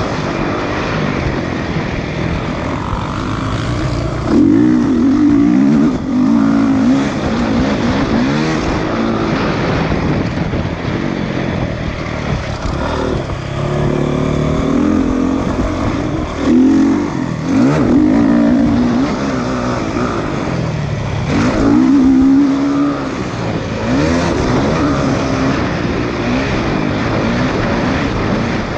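Motocross bikes racing, several engines revving up and falling back over one another, with louder swells as bikes come close about four seconds in, around seventeen seconds and around twenty-two seconds.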